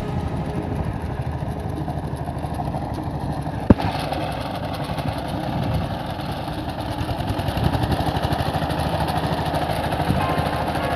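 Homemade mini tractor's small engine running steadily, with one sharp click a little under four seconds in.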